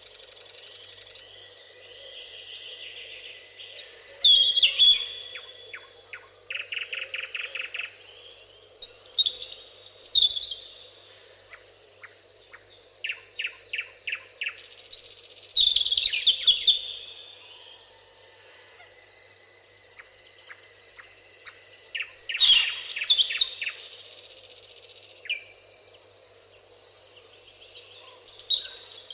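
Several songbirds singing in turn and overlapping: short whistled phrases, chirps and rapid trills, over a faint steady background hiss.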